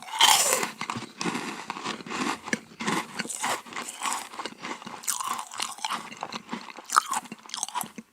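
Close-miked biting and crunchy chewing of a crisp dessert, a loud bite at the start followed by steady crackly chewing and another sharp crunch near the end.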